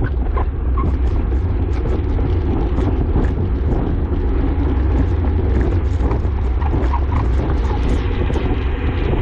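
Heavy wind rumble on the microphone of a camera riding along with a road bike racing on a wet road, over a steady hiss, with many small sharp clicks scattered throughout.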